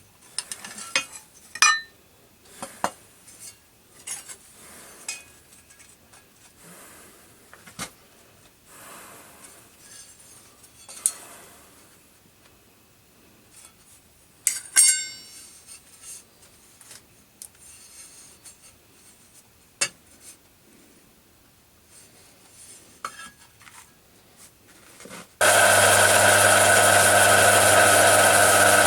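Hand tools and a brass plate handled on a workbench while marking out: scattered light scraping, rubbing and a few sharp metallic clinks that ring briefly. Near the end a loud, steady motor hum starts suddenly.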